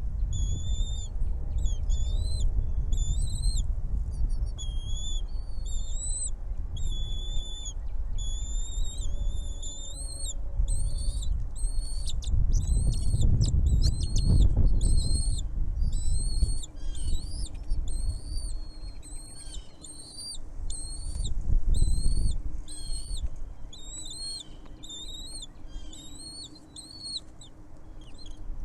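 A small bird repeating a short, high call note over and over, about three notes every two seconds, over a low rumbling noise that swells twice.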